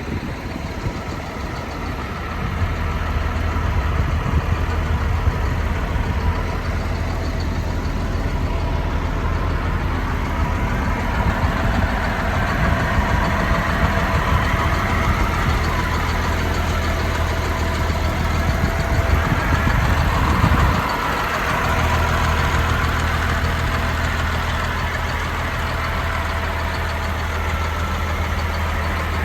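Cat C-7 diesel engine of a Peterbilt 335 truck running at a steady speed, with a short dip in the engine note about two-thirds of the way through.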